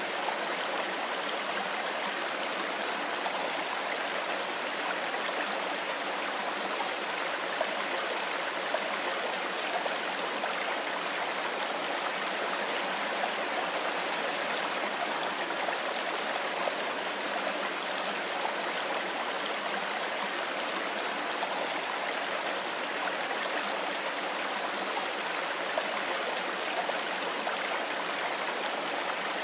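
Mountain river flowing: a steady, even rush of running water that does not change.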